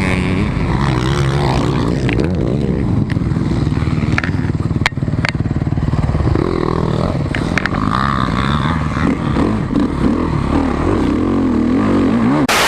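Motocross bike engine revving up and down as it is ridden, with scattered knocks and clatter.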